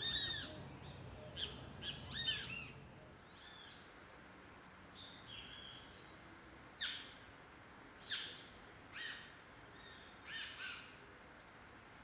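Great kiskadees calling: loud arched, ringing notes right at the start and again about two seconds in, a fainter one after that, then four sharp, separate bird calls spaced about a second apart in the second half.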